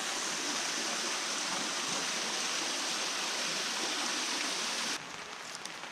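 Water running into and out of a small pool, a steady rushing stream sound. It drops abruptly to a quieter background about five seconds in.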